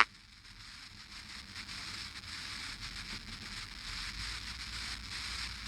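Faint steady hiss over a low rumble, with light crackle: the open background noise of the radio audio between transmissions.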